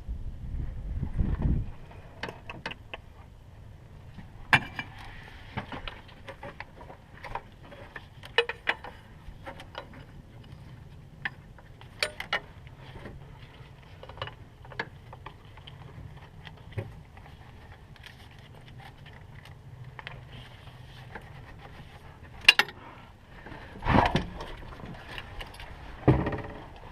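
Metal hand tools clinking and tapping on a diesel truck's fuel line fittings while loosening them to bleed air from the fuel system: scattered sharp clicks over a faint steady low hum, with two louder knocks near the end.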